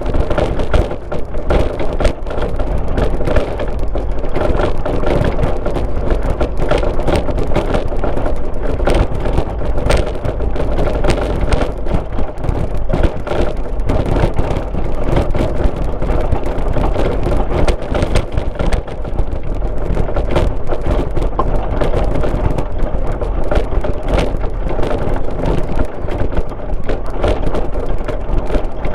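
Car driving on a rural road, heard from inside: steady engine and tyre noise under a constant crackle of small clicks and rattles.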